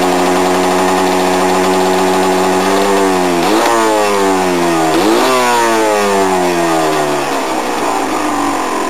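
Yamaha DT 230 Lanza's single-cylinder two-stroke engine running at steady revs. About three seconds in the revs start to drop, jump sharply back up twice, then fall away and fade, as when a rider downshifts while slowing.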